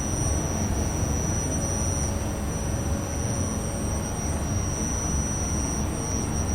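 New York City subway train running, a steady low rumble with a faint, steady high whine.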